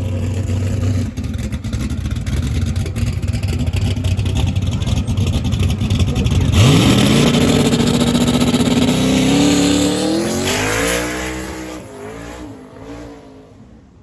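A car's engine rumbling, then at full throttle about six and a half seconds in: its pitch sweeps up and climbs in steps as the car accelerates hard through the gears, then fades as it pulls away.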